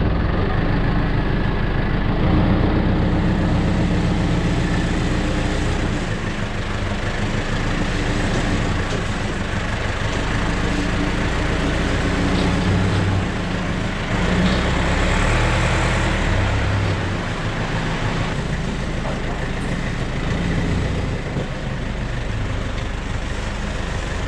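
Heavy engine-driven machinery running steadily with a low hum, its pitch and loudness shifting a little every few seconds.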